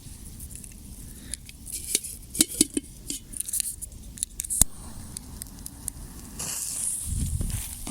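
Small homemade firework being lit and set off: scattered sharp crackles and clicks, then a short hissing whoosh with a low rumble near the end.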